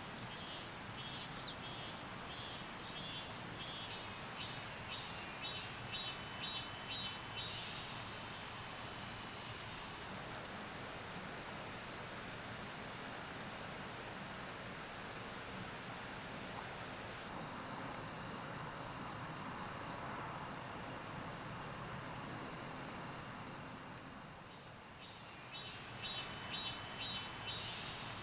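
Summer insects calling: series of high-pitched pulses repeating about twice a second over a steady shrill hum. Partway through, a higher, slower pulsing series takes over for several seconds before the lower pulsing returns near the end.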